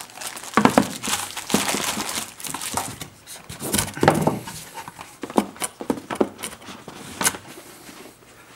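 Packaging crinkling and rustling as the accessories are handled and packed away, with irregular clicks and small knocks.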